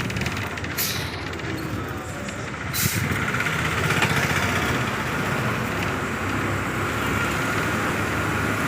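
A bus running along the road, heard from on board: steady engine rumble and road noise. A faint steady high whine joins about three seconds in.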